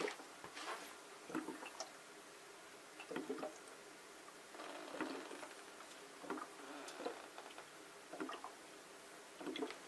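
Water draining from a humidifier's refill tank into its base: faint, irregular glugs and drips every second or so.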